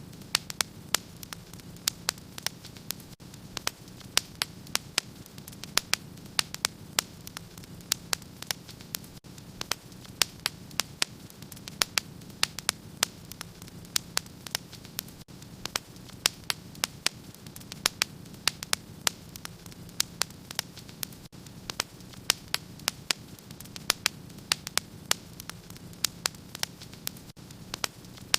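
Wood fire crackling in a fireplace: frequent sharp, irregular pops, several a second, over a steady low rumble.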